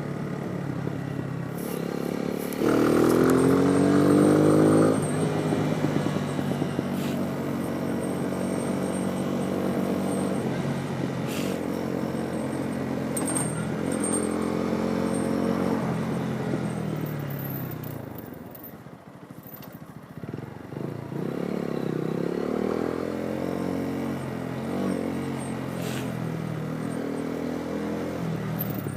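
Motorcycle engine heard from the rider's helmet camera, its pitch climbing again and again as it accelerates through the gears. It drops off and goes quieter about two-thirds of the way through as the bike slows, then picks up once more.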